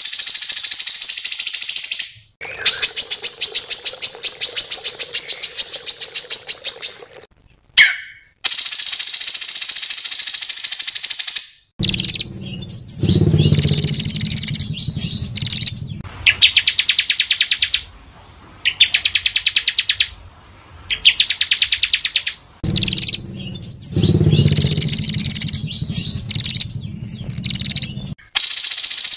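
Small songbirds giving rapid, harsh rattling trills, the dense 'tembakan' call bursts used as masteran tutor song for competition birds. The calls come in runs of one to four seconds with short breaks, and a lower sound runs under some of them.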